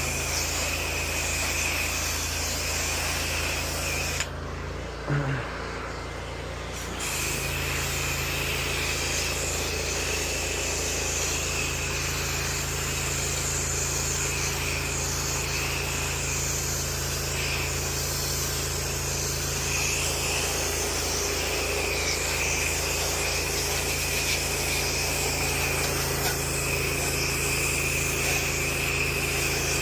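Pressure washer running steadily with its water spray hissing; about four seconds in the spray stops for roughly three seconds, then starts again.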